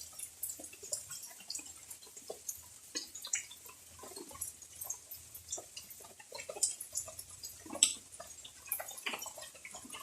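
Rainwater dripping just after a heavy shower: scattered drops tapping at uneven intervals, a few louder ones among many faint ones.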